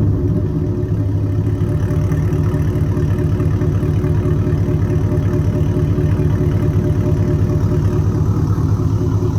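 Exhaust of a 2001 Chevrolet Silverado with headers and a Carven R muffler, the engine idling steadily.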